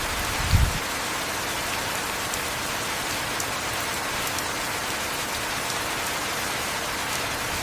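Heavy rain falling steadily, an even hiss of rain on a surface with scattered drop ticks. A short low thump comes about half a second in.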